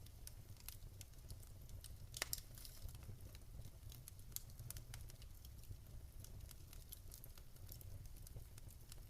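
Wood fire in a fireplace crackling faintly, with irregular small pops and one sharper pop about two seconds in, over a low steady rumble of the flames.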